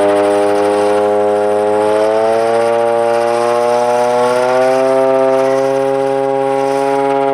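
A loud, sustained siren-like tone rich in overtones, held at one pitch and rising slightly about two to five seconds in, then holding.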